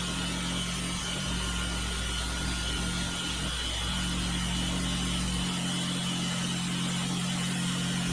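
A machine's engine or motor running steadily at a constant speed, with a low hum and a high whine. The deepest part of the hum drops away about five and a half seconds in.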